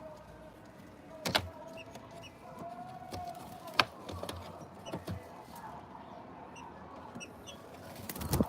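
Small birds chirping with short high notes throughout, broken by a few sharp knocks, one about a second in, one near the middle and one near the end.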